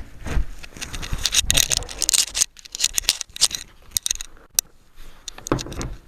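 Scraping, rustling and a few sharp knocks as sofa bed pieces are handled and pushed into their locks.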